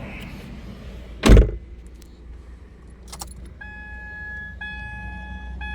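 Car interior sounds: a single heavy thump about a second in, a click, then from about three and a half seconds the car's pitched warning chime repeating about once a second, over a low steady rumble.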